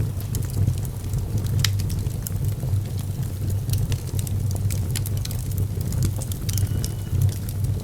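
Fire burning in a fireplace, with sharp irregular crackles and pops over a steady low rumble.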